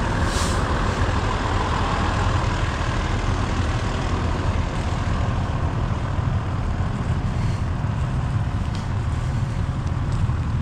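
Vehicle engine running steadily with a low, even rumble.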